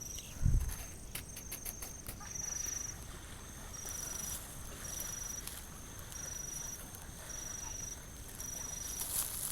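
An insect chirping a steady high note in regular pulses, about one a second. A low thump comes about half a second in, and a few faint clicks follow.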